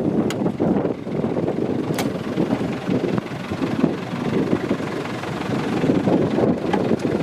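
Narrow-gauge steam locomotive running, heard from the footplate: a steady, uneven rumble of the moving engine with wind buffeting the microphone and a few sharp clicks.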